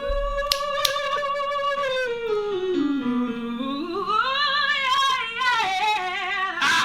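A singer doing a vocal warm-up exercise: one high note held for about two seconds, then a slow slide down about an octave and back up, followed by a few shorter notes.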